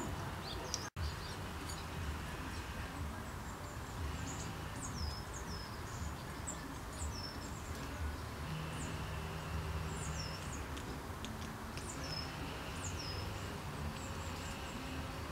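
Steady outdoor background rumble, with a small bird repeating short, high calls that fall in pitch, roughly one a second in runs. The sound cuts out for an instant about a second in.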